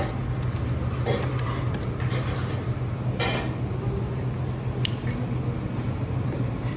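Scattered clinks and knocks of dishes and utensils, with a brief scraping rush about three seconds in, over a steady low hum.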